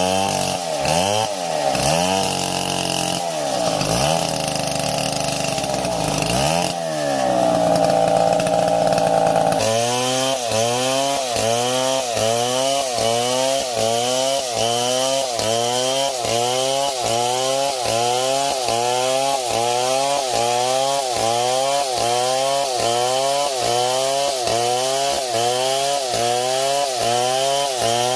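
Chainsaw engine running under load, its pitch swinging up and down, then held high for a few seconds. About ten seconds in it changes abruptly to a fast, very regular cycle of rising pitch, about one and a half times a second.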